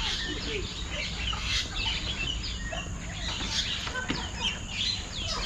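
Birds chirping and calling, many short quick calls overlapping one another, over a steady low rumble.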